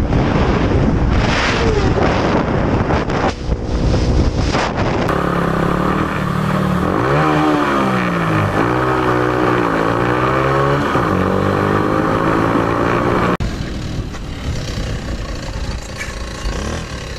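Motorcycle riding with heavy wind noise. About five seconds in it cuts to a motorcycle engine running strongly, its pitch dropping and climbing again several times as it revs and shifts. Near the end it cuts back to quieter riding noise.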